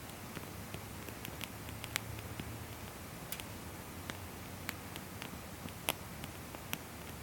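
Firewood burning in a fire stand, crackling with irregular sharp pops over a steady low background.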